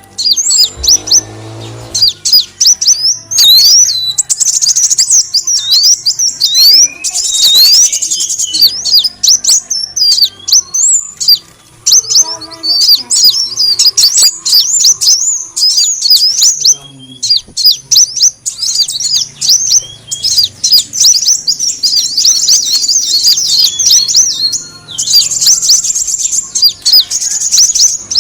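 Sunbird (Indonesian 'kolibri wulung') calling: a dense run of rapid, high, thin chirps and quick sweeping twitters, used as a lure call to attract the birds.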